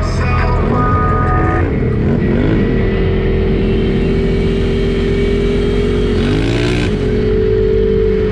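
Side-by-side UTV engine running under way with a steady drone, its revs rising and falling about a second in and again near the end.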